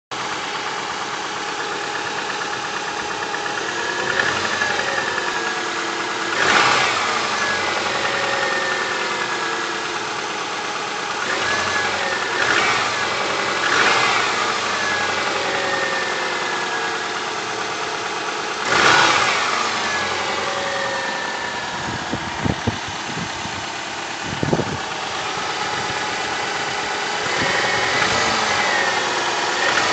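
Subaru EJ251 2.5-litre flat-four engine idling and revved briefly several times, with piston knock (piston slap) that calls for a repair. A few sharp clicks about two-thirds of the way in.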